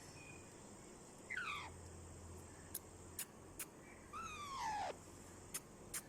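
Parrot giving two falling, drawn-out calls, the second longer and lower, with several sharp clicks in between and after.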